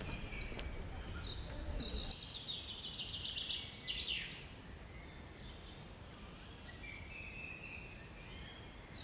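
Birds chirping and trilling in quick high bursts for about four seconds, then fainter calls, over a low outdoor background rumble.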